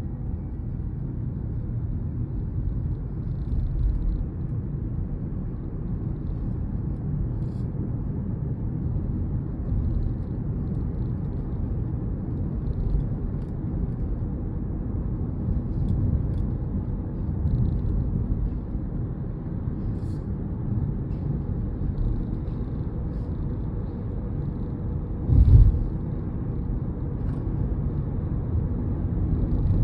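Cabin noise of a Hyundai Ioniq 5 driving at speed: a steady low road-and-wind rumble with an uneven low flutter, and faint intermittent ticks. This is the flapping/rattling from the driver's side door that shows up above about 40 mph. A louder low thump comes about 25 seconds in.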